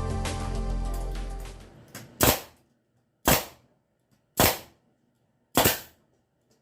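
Background music fading out, then a staple gun firing four times, about a second apart: sharp snaps driving staples into a wooden beehive frame.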